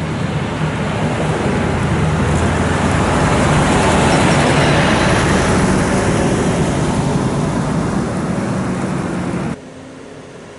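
A motor vehicle passing close by, its engine and tyre noise swelling to a peak about four seconds in and then fading, before the sound cuts off abruptly near the end.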